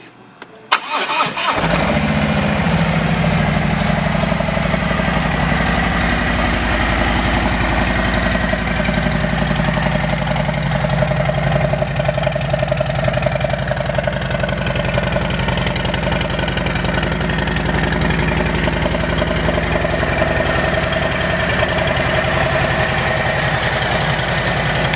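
Harley-Davidson Road King Special's 107 cubic inch V-twin with an aftermarket Vance & Hines exhaust being started: the starter clicks, the engine catches about a second in, then idles steadily.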